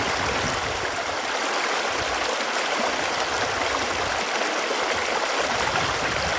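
Running water flowing steadily, an even rush with no breaks.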